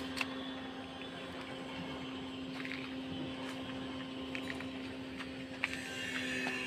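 A steady, even hum with a few light clicks over it and a sharper click near the end.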